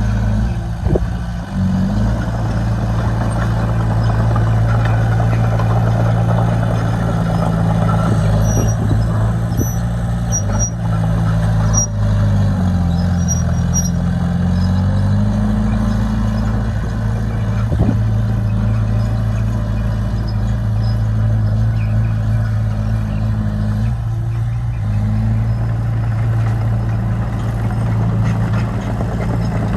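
Diesel engine of heavy earthmoving equipment running steadily under work. Its speed drops and then climbs back between about twelve and sixteen seconds in, and shifts again briefly about twenty-five seconds in.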